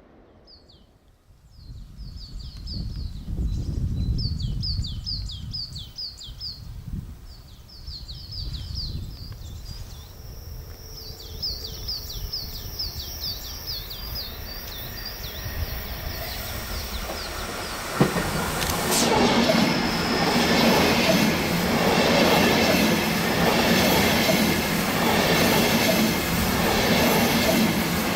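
Train on the Semmering railway running past: a low rumble first, then, after a sharp click about two-thirds in, a loud rolling noise with a regular clatter of wheels over the rails. Short, high, falling chirps repeat through the first half.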